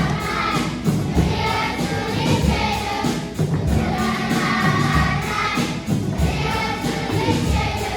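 A choir of children singing over recorded backing music with a steady beat.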